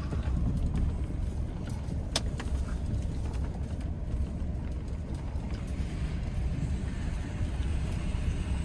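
Vehicle driving, a steady low rumble of engine and road noise, with a single faint click about two seconds in.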